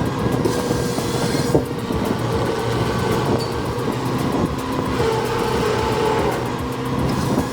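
Heavy diesel machinery running steadily, an engine drone with clanking and rattling metal, and a single sharp knock about one and a half seconds in.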